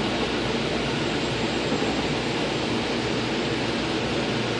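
Steady running noise of a JFK AirTrain car, heard from inside the cabin while it travels along its elevated guideway.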